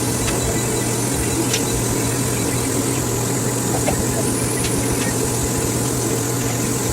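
A steady machine hum and rush with a constant low drone, with a few faint light clicks and taps over it.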